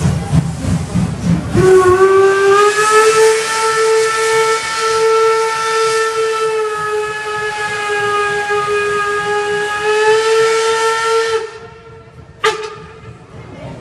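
Steam locomotive whistle blowing one long blast of about ten seconds: a steady, slightly rising tone that comes on after a moment of low rumbling and cuts off abruptly, with steam hiss around it. A single sharp click follows in the quieter stretch near the end.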